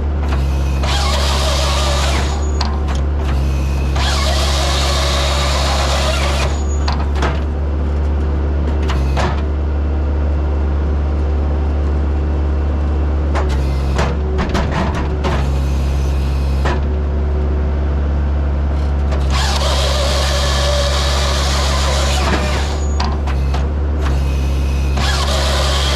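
Bobcat T190 skid steer's diesel engine running steadily under load while the Halverson 140B processor's saw cuts through logs in several loud bursts of two to three seconds each.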